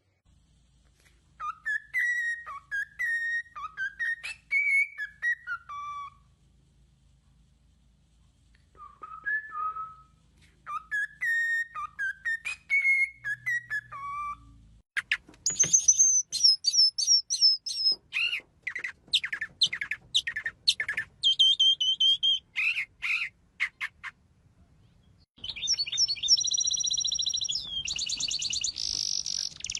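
Songbirds singing: a whistled, warbling phrase heard twice, then a run of rapid high chirps, then a high buzzy trill near the end.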